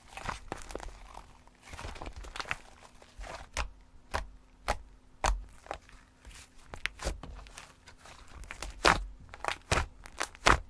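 Slime being squeezed and worked by hand, giving irregular sharp clicking and crackling pops, a few each second, with the loudest pops near the end.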